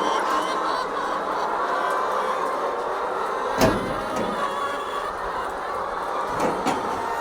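A large flock of chickens making a continuous clamour of many overlapping squawks and calls, the noisy reaction of birds disturbed by something unusual around them. A sharp knock cuts through about halfway, and two smaller knocks come near the end.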